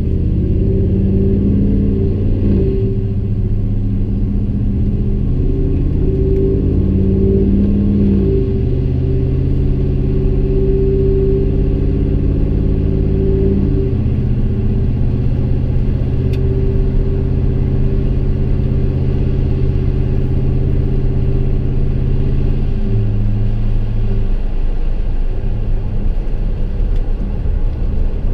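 Exhaust of a 2015 Chevy Silverado's 5.3-litre V8, fitted with long-tube headers and a Gibson M.W.A muffler, heard from inside the cab while driving: a loud, low engine note that steps down in pitch with upshifts about 3, 8 and 14 seconds in. It settles lower again a little past halfway and climbs near the end.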